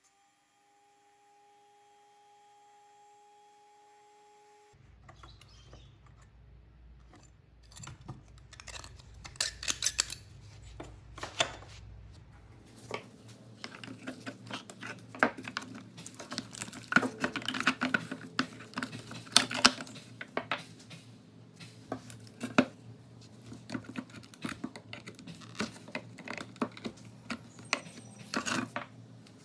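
Metal clinks and scrapes of a flat pry tool levering rusty steel axles out of a pressed-steel toy car body, many short irregular strikes, over a low steady hum that comes in about five seconds in.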